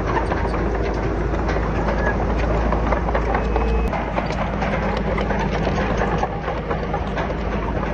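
Diesel engine of heavy earthmoving machinery running under load, with dense rattling and clatter over it. About four seconds in, the deepest rumble drops away.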